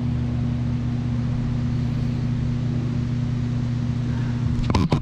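Steady low machine hum over an even rushing noise, with a couple of sharp clicks near the end.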